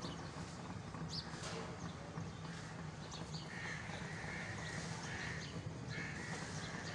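A bird calls four times in quick succession in the second half, over steady outdoor background noise.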